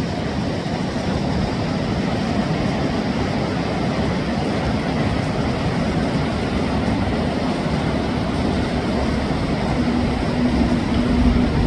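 River water rushing: a steady, even rush of noise, with a faint steady hum coming in near the end.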